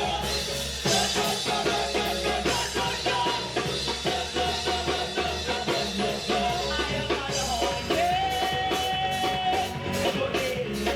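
Live praise band playing an upbeat gospel song with drum kit, between sung lines, with a note held for a couple of seconds about two-thirds of the way through.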